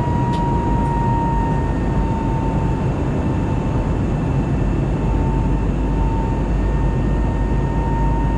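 Steady cabin noise inside an Airbus A320neo in flight: an even rush of airflow and engine noise from its CFM LEAP-1A turbofans, with a thin steady whine that drifts slightly lower.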